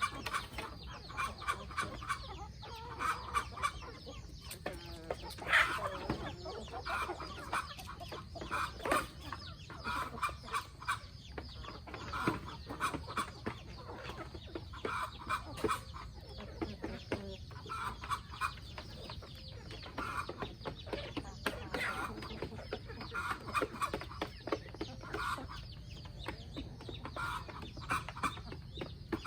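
A flock of free-range chickens clucking continuously in short, repeated calls, with many small clicks among them.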